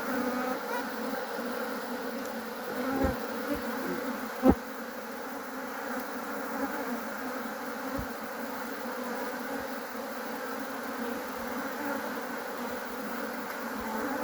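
A mass of honeybees buzzing steadily around an opened hive, a colony stirred up and active after being smoked. A few short knocks break through, the sharpest about four and a half seconds in.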